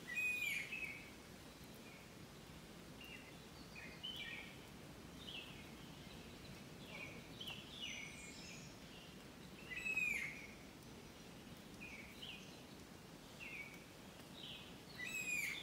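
Birds calling: short, downward-sliding whistled notes every second or so, loudest near the start, about ten seconds in and near the end, over a faint steady background hiss.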